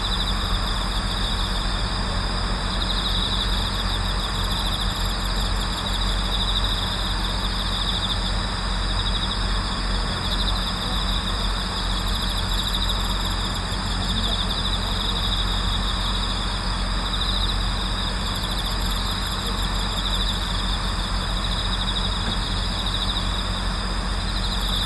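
A night chorus of autumn crickets, with steady overlapping trills and pulsing chirps. Underneath is a steady low rumble like distant traffic.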